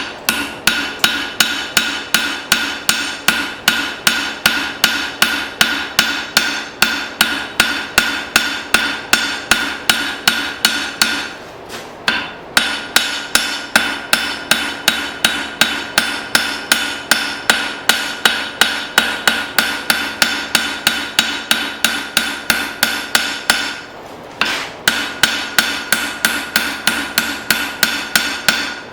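Blacksmith's hand hammer striking hot file steel on an anvil, drawing the blade into a taper, about three blows a second with the anvil ringing between strikes. The hammering pauses briefly twice.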